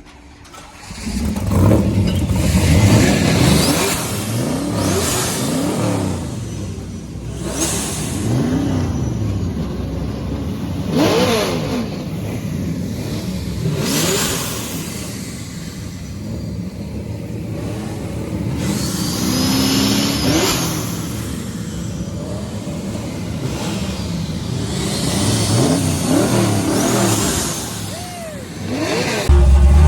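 Several pro-street cars' engines running together, revved again and again so their pitch keeps rising and falling, with sharp blips of the throttle.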